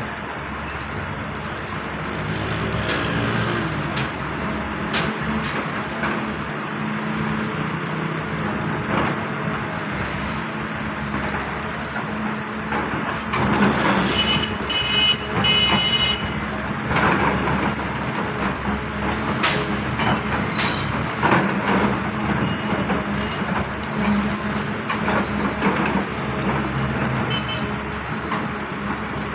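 Heavy diesel construction machinery running steadily, with repeated knocks and clanks of metal and material being handled, busier through the second half. A brief high squeal about halfway through.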